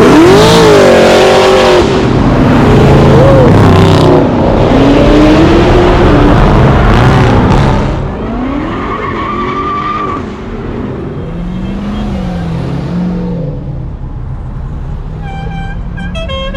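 A car revving hard with its tyres squealing, loud for about eight seconds and then dying down. Near the end a car horn sounds in short toots.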